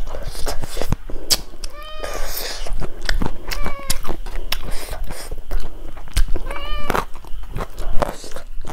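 Close-miked wet chewing and lip-smacking as a mouthful of rice and curry eaten by hand is chewed, with many sharp mouth clicks. Three short high-pitched arching calls cut in about two, three and a half, and seven seconds in.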